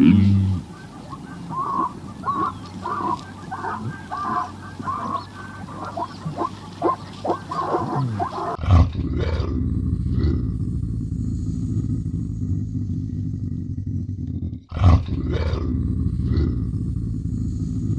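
Animal calls in two parts: first a run of short, quickly repeated calls, then, after an abrupt cut, a low, steady growling sound broken by a few sharp, louder calls.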